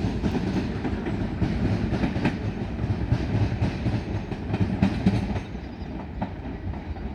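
A Southeastern Class 465 Networker electric multiple unit running out of the station, its wheels clicking over the track. The sound eases off about five and a half seconds in.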